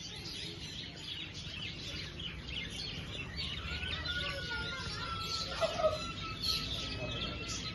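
Many birds chirping and calling together, as in a zoo aviary, with a long steady whistling call joining about halfway through.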